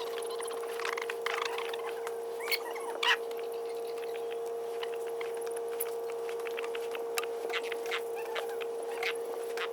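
Chickens at a feeder: scattered pecking clicks and a few short calls over a steady hum.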